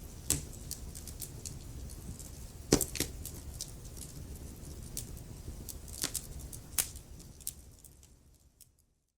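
Wood fire crackling, with irregular sharp pops over a low rumble of flames; the loudest pop comes about a third of the way in. The sound fades out to silence near the end.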